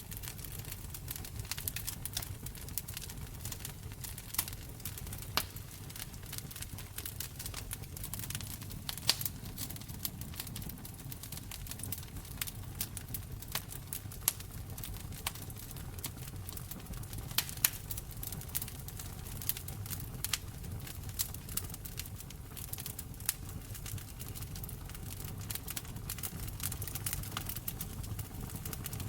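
Wood fire in a fireplace crackling, with frequent sharp pops and snaps over a low steady rumble of burning, a few pops standing out louder.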